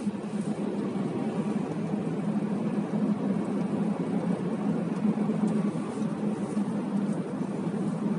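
Steady hum of a running car: a constant low drone under an even hiss, unchanging throughout.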